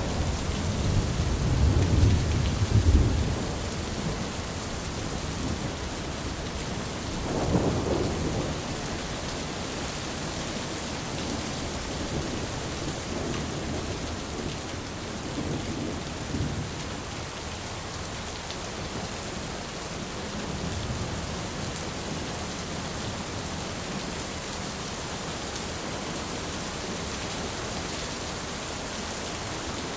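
Thunderstorm: steady rain hiss with rolling thunder. A loud low rumble fills the first few seconds, a shorter one comes about seven seconds in, and fainter rumbles follow later.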